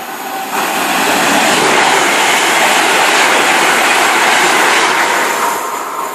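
A train passing through the station: a loud rush of wheel and rail noise that rises sharply about half a second in, holds for some four seconds, then fades near the end.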